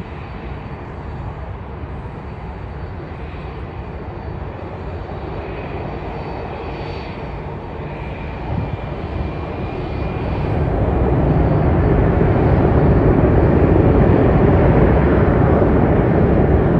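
Jet airliner's engines on the runway: a steady rumble with a faint high whine, swelling about ten seconds in to a much louder, sustained jet noise as thrust comes up for the takeoff.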